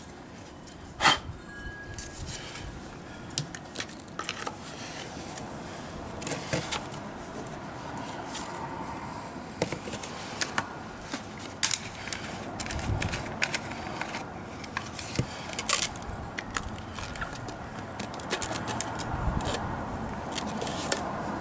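Small objects being handled: scattered clicks, taps and light scrapes, irregular and a few seconds apart, over a steady background hiss that grows a little louder in the second half.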